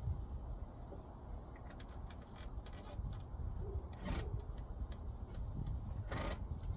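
Scattered clicks and two short scraping rushes of a cover panel being handled and fitted onto a heat pump, over a steady low rumble.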